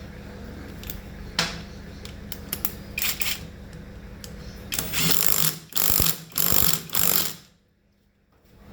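Clicks, ratcheting and metallic clatter of hand tools and metal parts during motorcycle repair work, over a steady low hum. Several louder, harsher bursts of noise come in the second half, then the sound drops away abruptly near the end.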